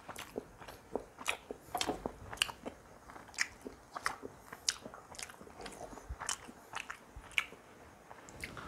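A man chewing a mouthful of roti and chilli chicken: an irregular run of short smacks and clicks from the mouth, two or three a second.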